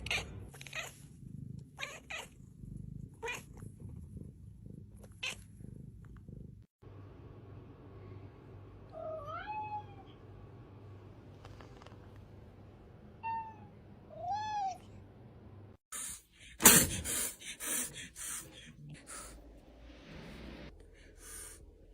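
A domestic cat meowing twice: a rising-then-falling call about nine seconds in and another a few seconds later. Sharp clicks come before the meows, and a louder burst of knocks and rustling follows them.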